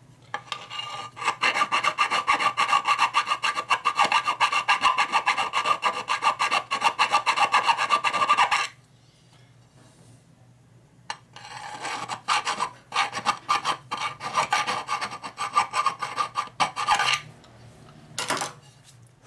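Hand file rasping on a metal part in quick back-and-forth strokes: two long runs of filing with a pause of a couple of seconds between them. It is taking high spots off so the part fits without binding.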